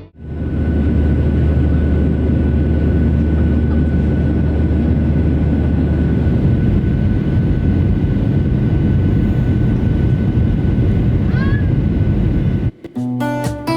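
Steady, loud low rumble of a running vehicle or engine with a constant low hum, and one short gliding chirp about 11 seconds in.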